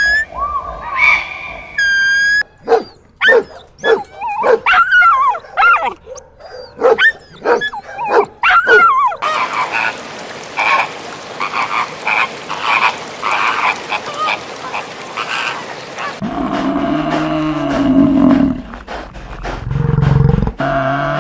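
A run of different animal calls that changes abruptly every few seconds. It moves from short high pitched calls, to quick rising-and-falling yelps, to a dense chorus, and ends on low, drawn-out arching calls.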